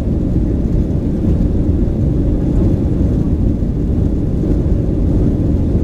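Steady cabin noise inside a Boeing 737-900 airliner in flight: a low, even rumble of CFM56 engines and airflow.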